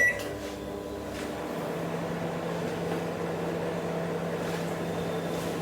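Microwave oven started with a short beep, then running with a steady hum while heating a covered bowl of pepper water on high.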